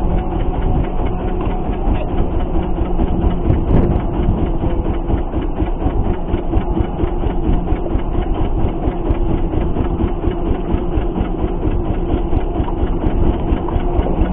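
Boat engine running steadily with an even, fast pulse and a constant hum.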